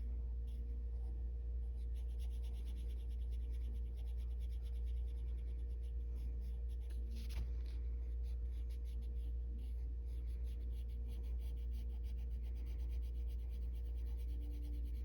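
Colored pencil shading on paper in quick, closely repeated strokes, over a steady low hum.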